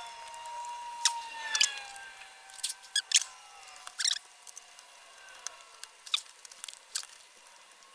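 Scattered sharp clicks and taps of plastic laptop parts being handled, irregular and uneven in strength, with a faint high tone drifting slowly lower behind them.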